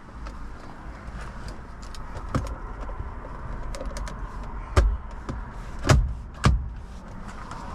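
Parts of an MG Hector Plus SUV being handled: a run of small clicks and four sharp thumps, the loudest about five and six seconds in.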